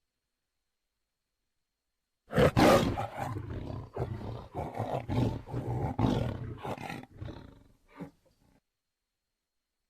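Tiger roaring and growling: a loud roar breaks in about two seconds in, then carries on as a run of short, repeated growls, about two a second, that fade out near eight seconds.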